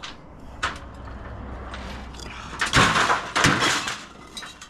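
Building work by hand: a few knocks, then a loud rough scrape lasting about a second in the middle, like brick or tool dragged across a hard surface.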